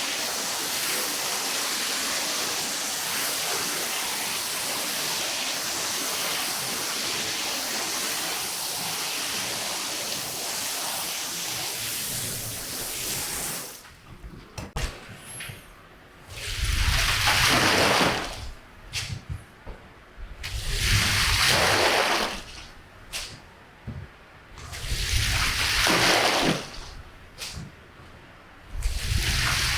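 Water rinsing a carpet: a steady hiss of spraying water, which stops about halfway through and gives way to four separate gushes of water, roughly every four seconds, with a few light knocks between them.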